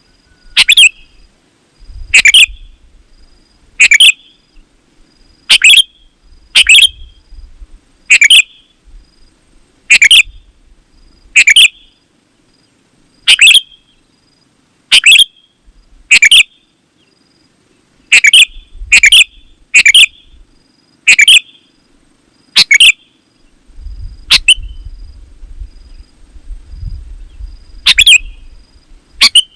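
Sooty-headed bulbul (kutilang) calling vigorously: short, loud, bubbly call phrases repeated every one to two seconds, with a pause of a few seconds near the end.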